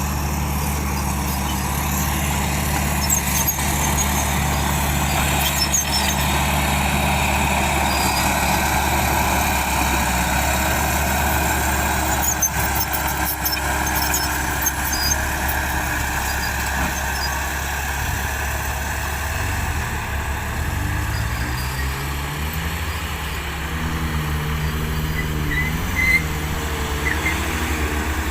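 Hino Dutro dump truck engine running steadily. About twenty seconds in, its pitch starts to rise and fall as the engine speed changes.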